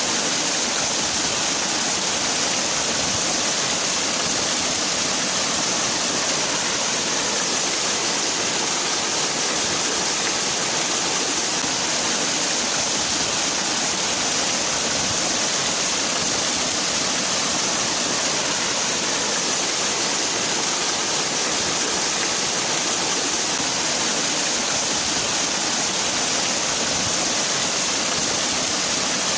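Waterfall: water falling steadily in a constant, even rush with a hissy top end, no changes or breaks.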